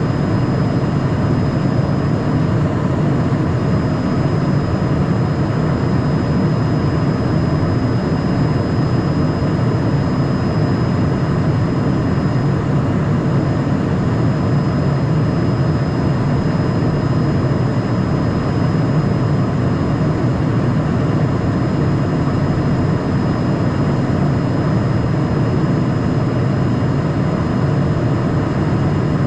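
Steady cabin noise inside a Cessna Citation Mustang twin-engine light jet: a dense, even rush of engine and airflow noise, heaviest in the low range, with a faint thin high whine held above it.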